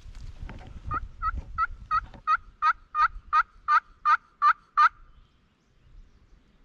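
A series of about twelve hen turkey yelps, evenly spaced at roughly three a second, growing louder toward the end.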